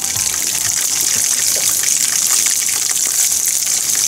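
Chicken karaage frying in hot oil in a pan: a steady sizzle with scattered small crackles.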